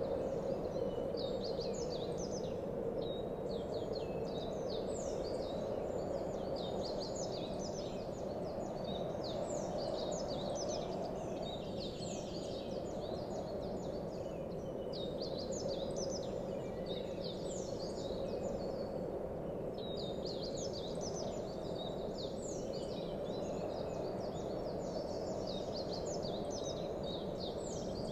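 Many small birds chirping in a dense chorus of short high chirps over a steady noisy background, like an outdoor nature ambience.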